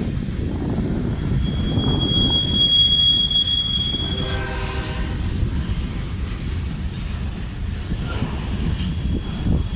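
CSX freight train of rock cars rolling past with a steady low rumble. A single high-pitched wheel squeal holds for a few seconds from about a second in, followed by a brief lower pitched tone.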